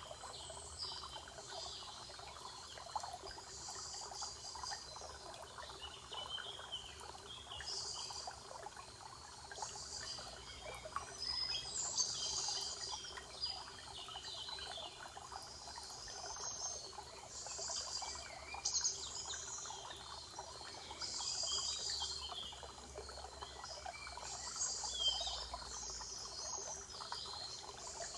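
Several songbirds chirping and trilling in short, repeated phrases, over a steady background of trickling water.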